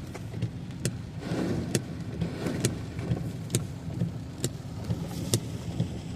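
Car running in heavy rain, heard from inside the cabin: a steady low engine and road rumble with a sharp knock about every second as the windscreen wipers reverse. There is a swell of water splash and hiss about a second in.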